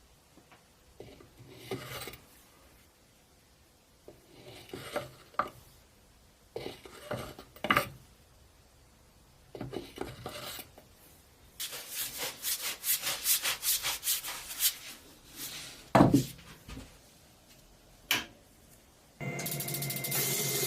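Hand scraping and rubbing on the old toy truck's parts in short bursts, then a run of fast back-and-forth strokes like filing. A single knock follows, then a click, and near the end a motor starts running steadily with a hiss.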